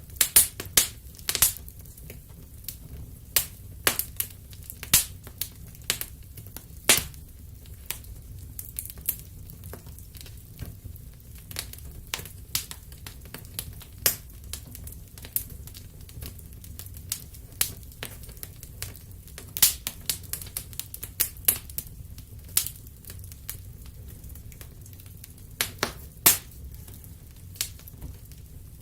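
Wood fire crackling and popping: irregular sharp snaps, a few louder pops among them, over a low steady rumble of the burning fire.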